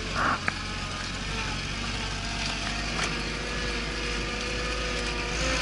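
Off-road vehicle's engine running steadily at low speed, with a steady whine that rises slightly near the end.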